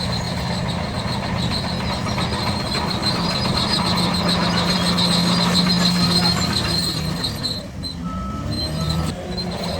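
Shantui DH17C3 crawler bulldozer at work: the diesel engine runs steadily while the steel tracks give a high, pulsing squeal. Both ease off briefly near the end.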